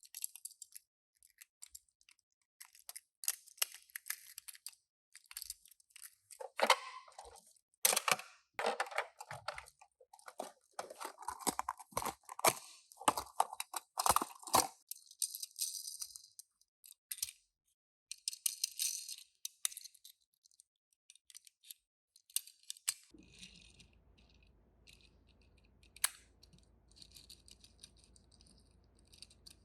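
Hands unpacking a boxed toy car: irregular crinkling, scraping and tearing of cardboard and plastic packaging with small clicks. It is busiest in the first half, then turns to sparser taps and a sharp click over a faint steady hum.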